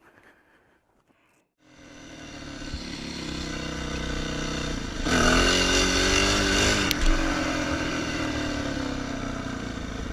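Motorcycle engine running, fading in after a moment of near silence and growing louder. About five seconds in it revs harder with a rising and falling pitch, then settles to a steady run.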